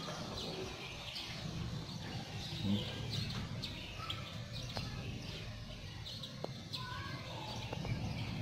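Small birds chirping on and off, with short high calls scattered throughout, over a steady low hum of background noise.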